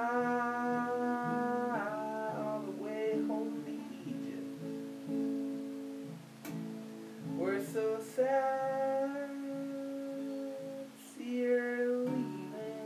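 Acoustic guitar strummed steadily under a voice singing long held notes, with short pauses in the singing about two and six seconds in.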